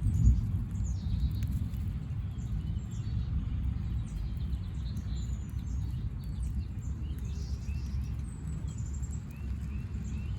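Small birds chirping and calling, with a run of short repeated notes near the end, over a steady low rumble.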